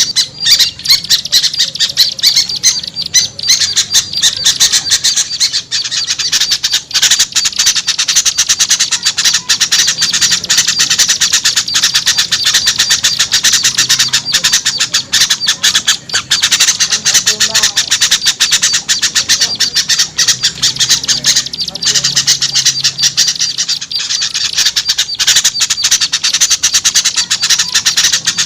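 Dense chorus of many small birds chattering and scolding at once, a continuous stream of rapid, sharp calls. It is a bird-trapping lure recording (suara pikat), mixed to draw wary small birds down.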